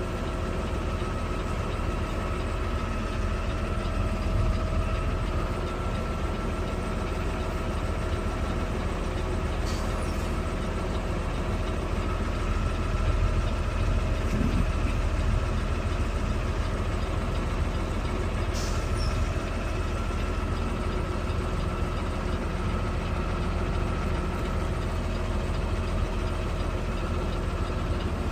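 Garbage truck's diesel engine running steadily, with a steady whine above the low engine sound and a couple of faint clicks.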